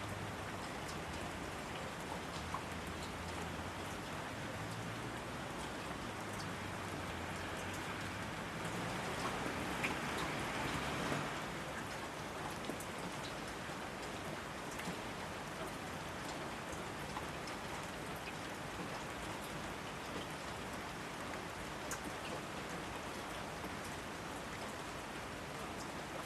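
Steady rain falling, with single drops heard as small ticks over the wash of the downpour. The rain grows louder for a couple of seconds about ten seconds in. A faint low hum lies underneath in the first half.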